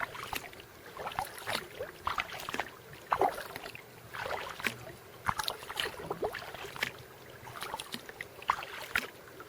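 Water sounds of a kayak being paddled: irregular splashes and drips from the paddle, with water lapping at the hull.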